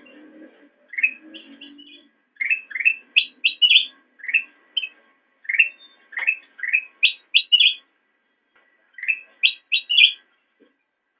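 Kutilang emas, a golden bulbul, singing: phrases of short, quick chirps and whistled notes, some rising, broken by brief pauses and a longer pause about two-thirds of the way through.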